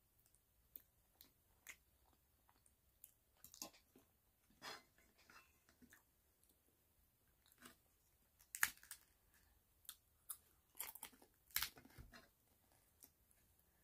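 Faint close-up chewing with irregular crunches, a person eating a crisp fried-tortilla tostada shell with taco meat and lettuce; a few louder crunches come a little past the middle and again near the three-quarter mark.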